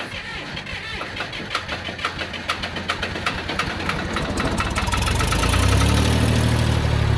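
Old John Deere bulldozer engine being cranked, its chugging strokes coming quicker and quicker until it catches about five seconds in and runs, loud and low.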